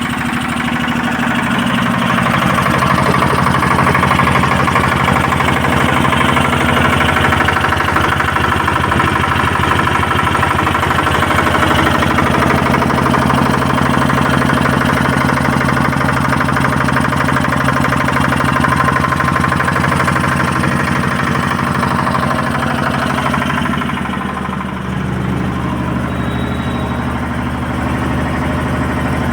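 Air-cooled generator engine running steadily. About two seconds in it speeds up and runs louder, then settles back to a lower speed near the end.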